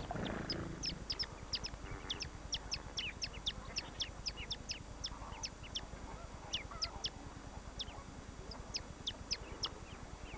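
A bird giving a rapid series of thin, high chirps, each a short downward sweep, several a second, with a brief pause a little before the end. A lower, goose-like call fades out right at the start.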